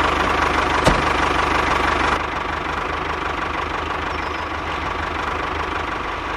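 An engine running steadily at idle, with a sharp click about a second in and a slight drop in level about two seconds in.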